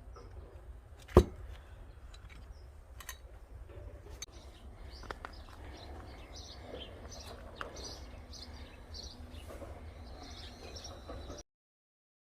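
A single sharp axe strike on a log about a second in, then small birds chirping over a low steady rumble. The sound cuts off abruptly shortly before the end.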